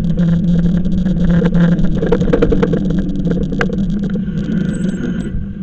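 E-bike in motion: a steady low hum runs under frequent rattling clicks and knocks as the bike rolls along, and the hum eases off near the end.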